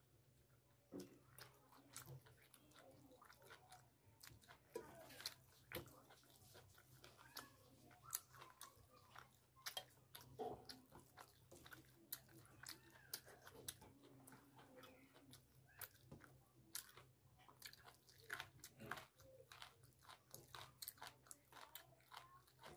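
Close-up, quiet chewing and biting: wet mouth clicks and smacks as chicken leg curry and rice is eaten by hand, over a faint steady low hum.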